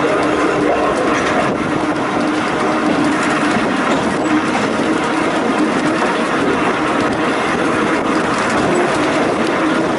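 Volk's Electric Railway car running along the narrow-gauge track: a steady rolling rumble with a constant hum.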